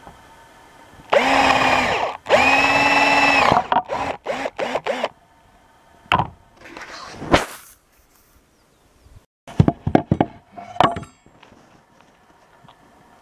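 Handheld power tool motor running in two bursts of about a second each, then several short trigger blips, followed by scattered knocks and clicks.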